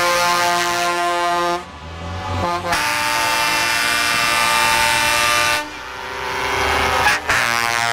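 Truck air horns sounding long, held multi-tone blasts: one of about a second and a half, a second of nearly three seconds, and another starting near the end. Diesel truck engines run in the short gaps between blasts.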